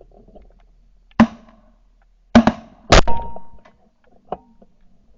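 Shotgun blasts from several hunters firing at ducks: one shot, then a quick cluster of three or four about two to three seconds in, and a fainter one near the end.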